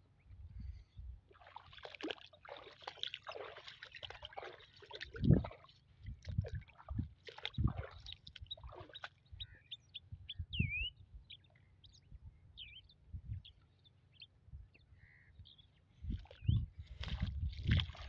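Birds calling over a flooded field. There are harsh, scratchy calls through the first several seconds, then short whistled chirps and a rising-and-falling note around the middle, with scattered low thumps throughout.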